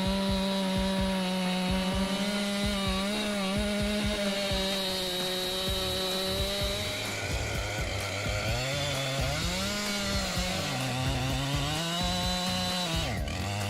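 Husqvarna 592 XP two-stroke chainsaw running at high speed while cutting a large log: a steady high engine note at first, then from about halfway its pitch repeatedly sags and recovers as the chain bogs down in the wood under load.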